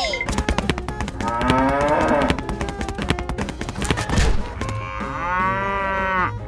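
Cow mooing: two long moos, about a second in and again near the end, over a fast run of clicks.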